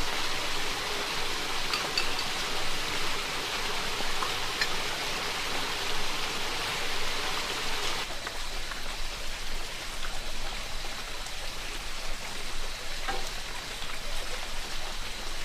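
Rain falling steadily in an even hiss, with scattered faint drop ticks. It eases slightly from about eight seconds in.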